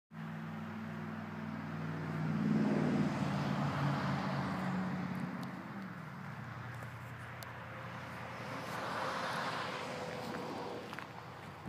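A motor vehicle's engine running with a steady low hum that is loudest about two to four seconds in; its pitch drops at about six seconds and it then fades to a fainter background noise.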